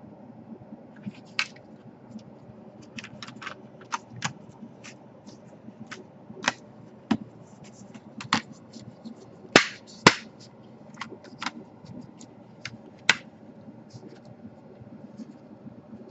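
Irregular sharp clicks and taps of plastic laptop parts being handled and fitted during reassembly, the two loudest about half a second apart near the middle.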